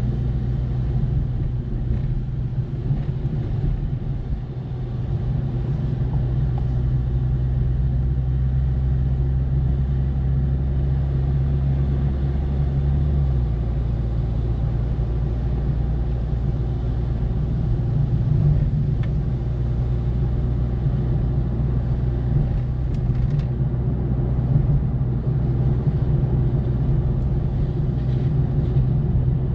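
Car engine and road noise heard inside the cabin while driving: a steady low drone whose pitch drops and settles about 13 seconds in.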